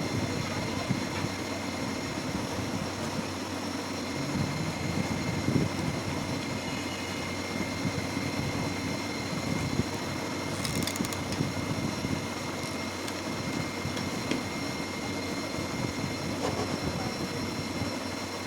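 Small battery-powered DC motor spinning a propeller fan: a steady whir with a thin, constant high whine. A short burst of clicks comes about eleven seconds in.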